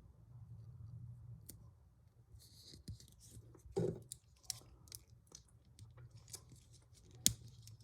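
Faint handling noise of LEGO pieces and a sticker sheet: scattered light plastic clicks and rustles, with a louder rustle about four seconds in and a sharp click near the end.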